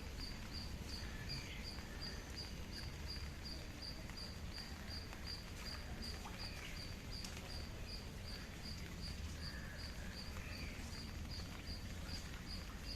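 An insect chirping in a steady, even rhythm of about three high chirps a second over a constant background noise, with a few faint bird calls.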